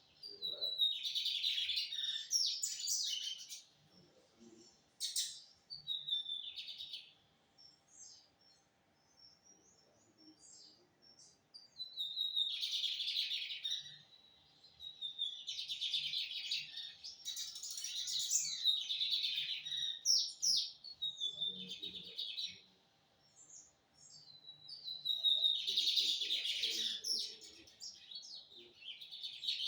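Lined seedeater (bigodinho) singing: four bouts of rapid, high-pitched chirping song, each a few seconds long, with pauses between them.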